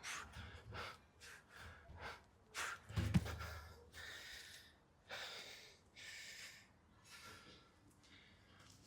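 A man breathing hard and fast from exertion during bodyweight exercise, with sharp exhales and quick inhales about once or twice a second. A dull thump comes about three seconds in.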